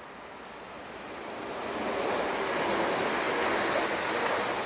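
A train approaching and passing: a rushing noise of wheels on rails that swells over the first two seconds, then holds steady with a faint hum in it.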